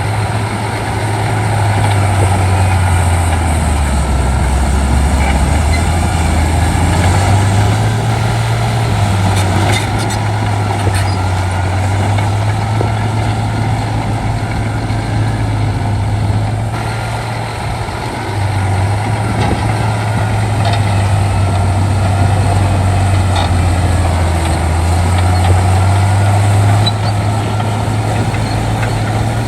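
Shantui D95 bulldozer's diesel engine running under load, its low pitch dropping for a couple of seconds near the start and rising again, with a faint wavering squeal above it.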